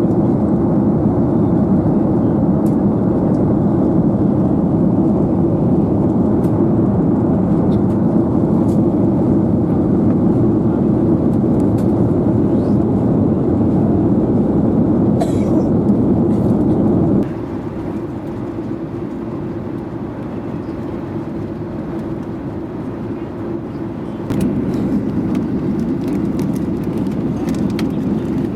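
Steady engine and airflow noise inside the cabin of a Boeing 737-800 airliner. It drops suddenly to a quieter level about seventeen seconds in and jumps back up about seven seconds later.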